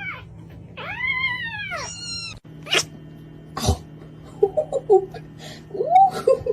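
A domestic cat meowing: a short meow, then a long drawn-out meow and a higher one in the first two seconds. Later come a couple of sharp clicks and a few soft, short chirping meows.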